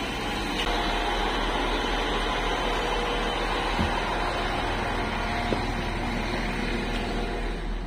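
Steady hum of a standing electric train's onboard equipment, with two short knocks about four and five and a half seconds in as feet land on the carriage's metal entry steps.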